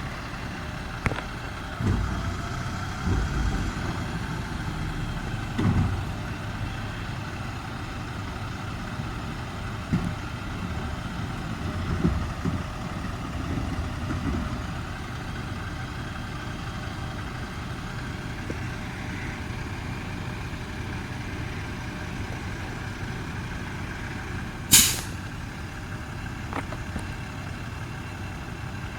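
Garbage truck engine running steadily, with a series of heavy thumps and clunks through the first half and a single short, sharp burst near the end.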